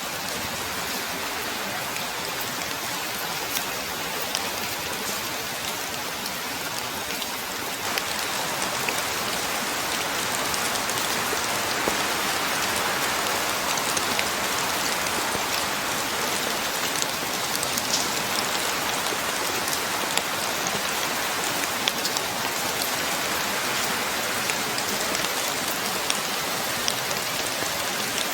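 Steady rain falling, with scattered sharper drop hits. It gets heavier about eight seconds in.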